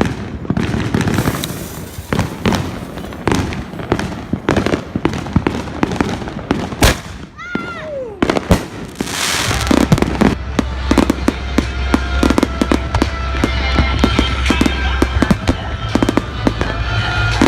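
Consumer fireworks going off in rapid succession: a dense run of crackles and bangs, with a whistling glide about seven and a half seconds in.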